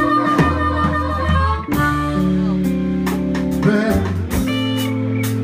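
Live blues band playing: guitar lines with bent, sliding notes over held bass notes and a drum kit.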